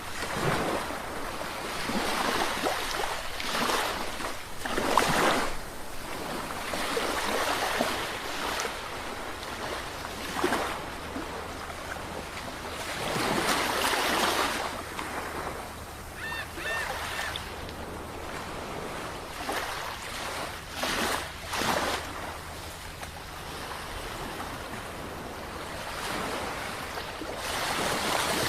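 Sea waves breaking and washing ashore in irregular surges of rushing surf, a new swell every second or few.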